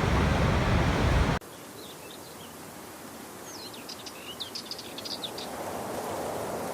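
Loud, steady waterfall rush that cuts off abruptly about a second and a half in, leaving a quieter rush of water. In it a small bird gives a quick run of high chirps, and the water sound then gradually swells again.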